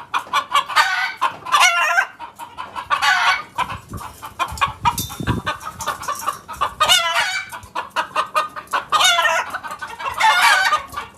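Chickens clucking, with several longer, wavering calls standing out among the clucks.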